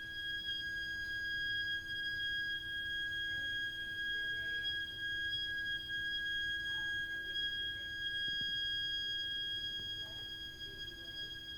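Heat interface unit (HIU) and heating pipework giving off a continuous, shrill, high-pitched whistle: one unwavering tone with a strong overtone an octave above and a fainter lower hum. It is an abnormal plumbing fault noise that goes on even when no hot water or heating is being used.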